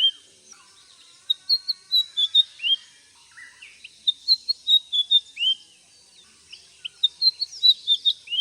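White-browed fantail singing: phrases of short, high whistled notes, each run of about six to eight notes, repeated every two to three seconds.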